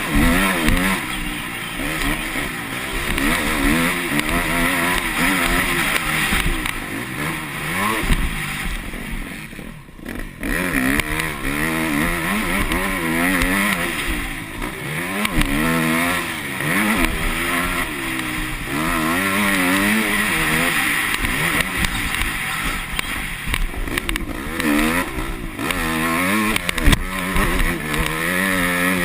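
Yamaha YZ250F four-stroke single-cylinder motocross engine being ridden hard, its pitch rising and falling over and over as the throttle is opened and closed. The engine sound drops off briefly about ten seconds in before picking up again.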